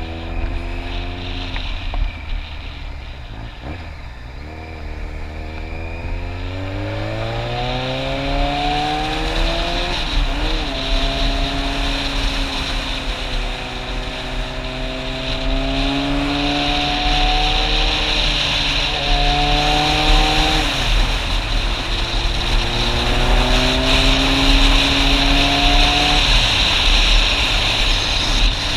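Motorcycle engine accelerating through the gears, its pitch climbing and then dropping at each of several gear changes. Wind rush grows louder as the speed builds.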